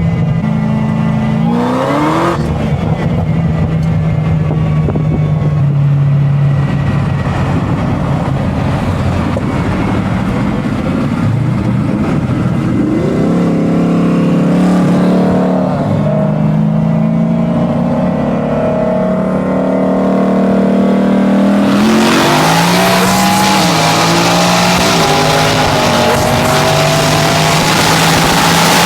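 Turbocharged engine of a big-turbo Toyota Supra MK5, an inline-six, heard from inside the car. It runs at low, steady revs with a few short throttle blips, then about 22 seconds in goes to full throttle in a loud rush. The revs climb, drop briefly at a gear change, then climb again.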